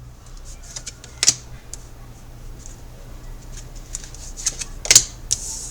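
Tarot cards being handled and laid out: soft rustling and light clicks, with two sharp card snaps, one about a second in and one near the end.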